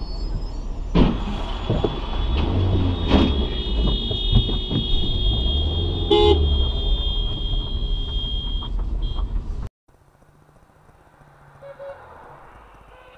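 Road traffic noise with a car horn sounding, including a long steady blast and a short honk about six seconds in. The noise drops off abruptly near the end to a much quieter scene.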